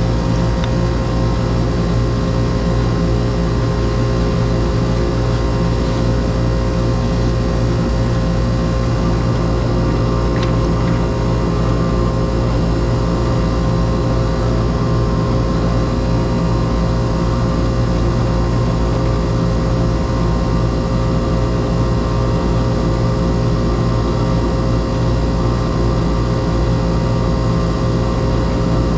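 Air-conditioner condenser unit running: a steady mechanical hum from the compressor and fan, with fixed tones that do not change.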